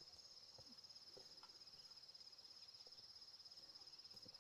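Faint, steady, high insect trill, a cricket, pulsing rapidly, with a few soft knocks.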